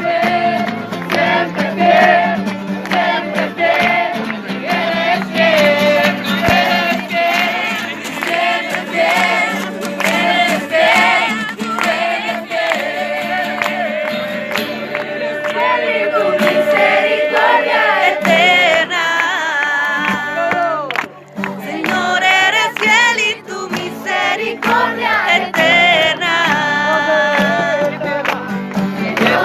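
A song sung by a group of voices, choir-like, over a steady accompaniment, with a brief drop about two-thirds of the way through.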